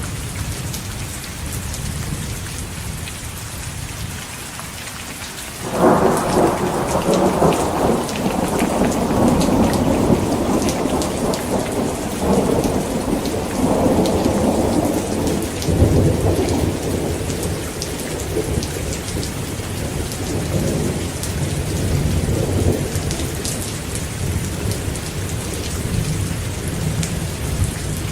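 Heavy rain falling steadily with thunder. About six seconds in, a sudden loud thunderclap breaks into a long rolling rumble, followed by weaker rumbles that fade away.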